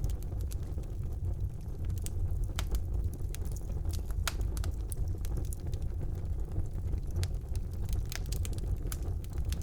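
Wood fire burning in a fireplace, a steady low rumble of flames with frequent irregular sharp crackles and pops.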